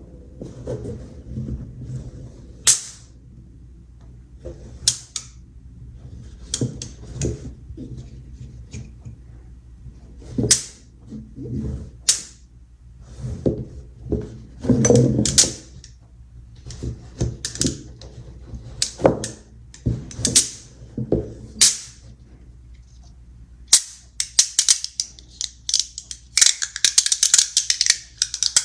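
Magnet balls snapping together in sharp single clicks at irregular intervals, then many balls clattering against each other in a dense, fast rattle near the end.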